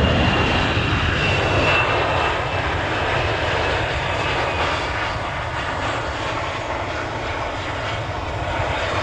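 Airliner engines passing close: a loud, steady rush with a thin high whine that fades about two seconds in, the whole sound slowly dying away.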